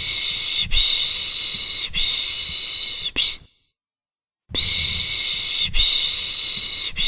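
A person making the soothing 'piş piş' shushing sound used to calm a baby. It comes as runs of long hissing 'shhh' strokes, about three joined together, each run ending in a short sharp shush. About a second of silence follows, and then the same pattern starts again.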